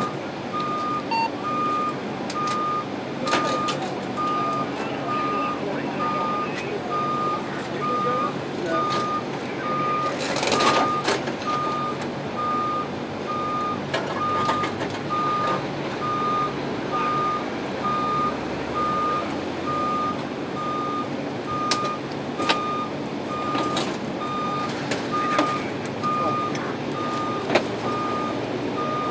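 A vehicle's back-up alarm beeping steadily, about once a second, over a heavy vehicle's idling engine. A louder burst of clatter comes about ten seconds in.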